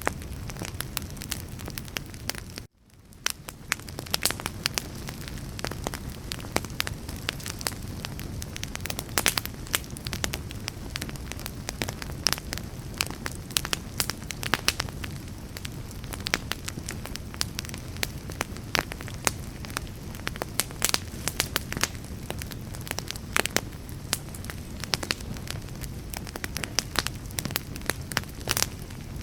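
Wood fire burning, with a steady low rumble of flames and frequent sharp pops and crackles of burning wood. About three seconds in, the sound cuts out for an instant and fades back up over about a second.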